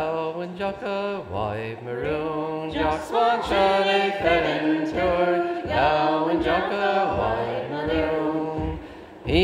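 Unaccompanied group singing of a milling song, the traditional work song sung while shrinking woven wool by hand. The voices come in together at once and carry on through.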